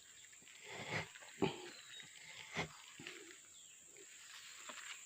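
A small bird caught on bird-lime (sticky sap) giving a few short, harsh calls, about one, one and a half and two and a half seconds in.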